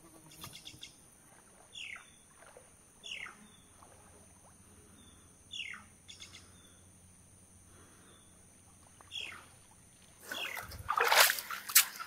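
A forest bird gives four short whistles, each falling steeply in pitch, over a steady high drone of insects. Near the end louder noisy handling and splashing sounds come in.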